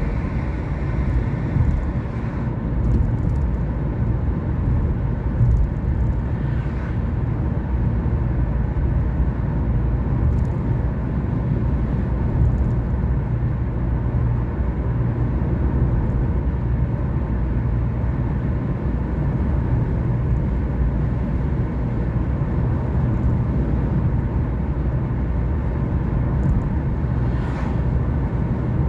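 A car being driven: steady low engine and road rumble, with a couple of brief swells of higher hiss about seven seconds in and near the end.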